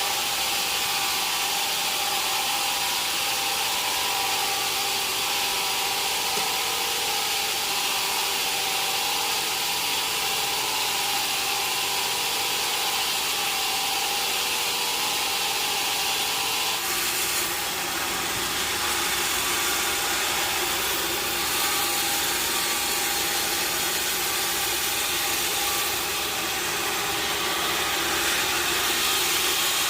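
Sawmill saw cutting through wood: a steady hiss of the blade in the timber with a whine under it, its tone changing about 17 seconds in.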